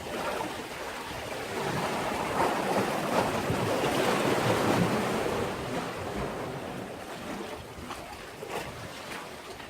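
Sea waves washing against a breakwater: a wave surges up about two seconds in, peaks a couple of seconds later, then recedes with a few small splashes.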